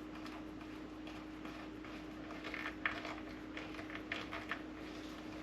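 Small irregular clicks and scratches of a #1 Phillips screwdriver turned by hand, driving a small screw into the coffee maker's housing, getting busier about two seconds in. A faint steady hum underneath.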